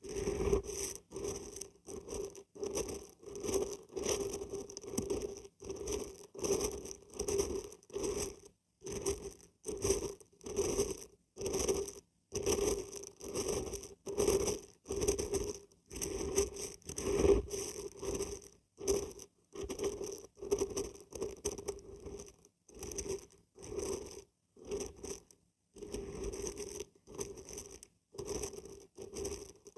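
Dried beans and dried barberries being shaken, rattling and pattering in short rhythmic bursts about twice a second.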